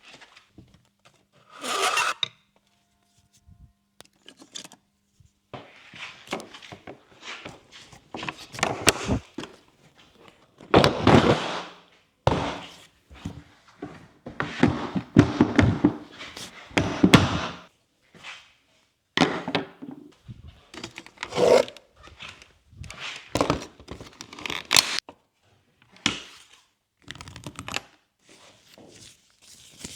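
Hands working on parts and tools: an irregular run of thunks, scrapes and rustles, in short bursts a second or two long.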